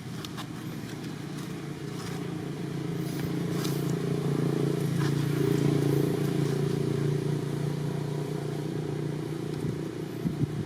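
A motor running with a steady low hum that grows louder until about six seconds in and then fades somewhat.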